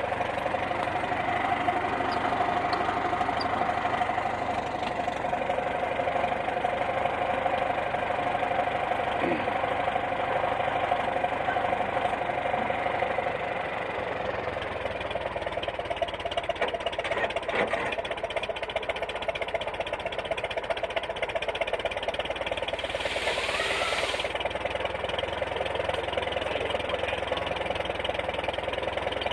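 Farmall 400 tractor engine running steadily at idle, with a held whine that gives way to a more fluttering sound about halfway through. A brief hiss comes about two-thirds of the way in.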